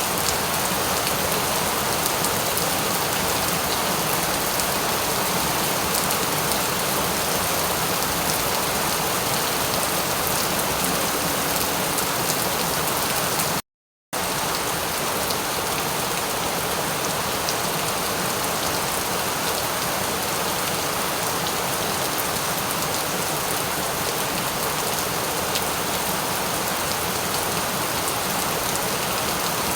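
Steady rain falling, an even dense hiss of many drops. About halfway through the sound cuts out completely for under half a second, then resumes unchanged.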